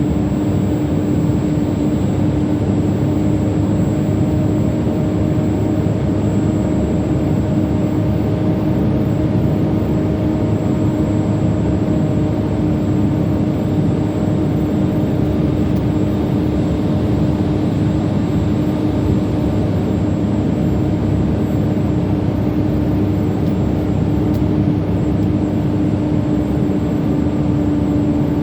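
Heavily loaded truck's diesel engine pulling steadily: a constant drone with a steady hum and no change in pitch.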